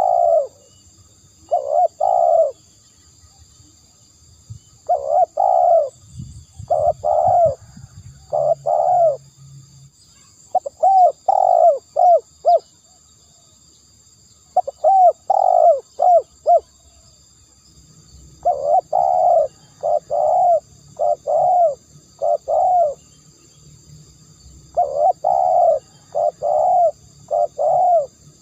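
Spotted dove cooing, the song used as a decoy call: loud, repeated coo notes in phrases of two to five, with pauses of a second or two between phrases. Under it runs a faint, steady high-pitched whine.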